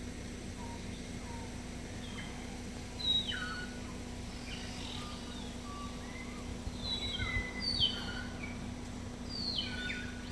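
Birds chirping: short clear notes and quick downward-sliding whistles, a few at first, then in busy clusters from about three seconds in. Underneath runs a steady low hum and rumble.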